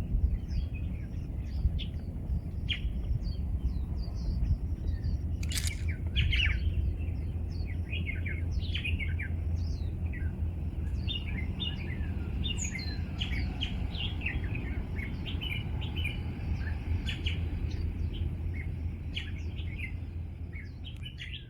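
Songbirds chirping: many short, quick calls from several birds over a steady low rumble, with a brief crackle about five seconds in.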